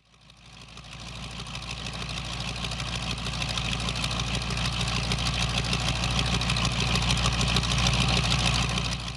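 Car engine running steadily. It fades in over the first few seconds, holds a fast, even pulse, then cuts off abruptly.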